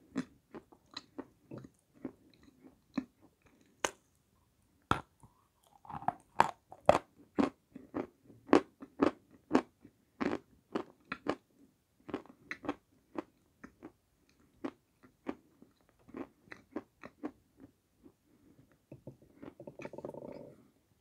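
A person biting and chewing pieces of dry edible clay close to the microphone: sharp, separate crunches, about one or two a second.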